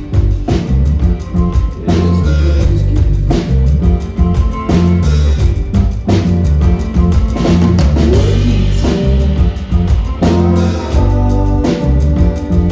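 Live rock band playing an instrumental passage: drum kit with a steady beat, bass and electric guitars.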